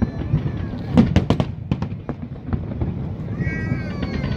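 Fireworks display: a rapid series of sharp bangs and crackles over a low rumble, with a cluster of loud bangs about a second in.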